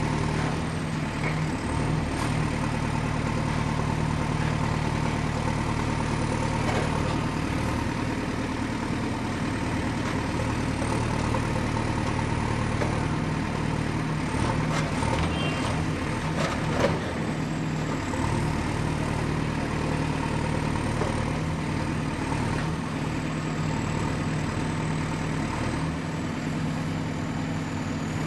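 Excavator's diesel engine running steadily under work, with a few short knocks and clanks about halfway through, one louder than the rest.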